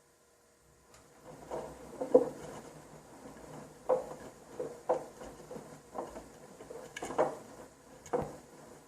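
Front-loading washing machine drum tumbling a wet load of dark clothes during the wash: after a brief pause the drum turns again, with irregular soft thuds and sloshes about once a second.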